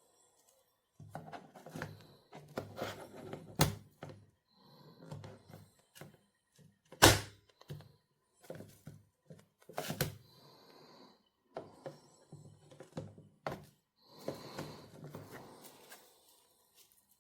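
A series of sharp knocks and thuds, the loudest about seven seconds in, among irregular bumping and rustling noise in a small room.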